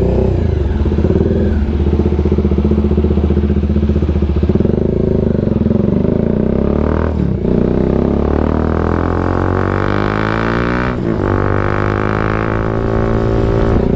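Bajaj Dominar 400's single-cylinder engine through an SC Project aftermarket exhaust, accelerating under way. The pitch climbs with two short breaks for gear changes, about seven and eleven seconds in.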